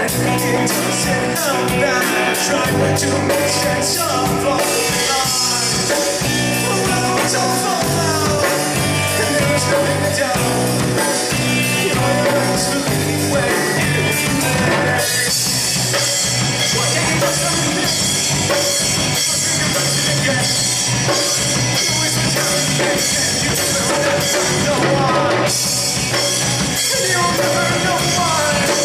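Rock band playing live: singing over drums, cymbals and guitar, in a rough, poorly balanced recording. The cymbals get brighter about 5 seconds in and again a little past halfway.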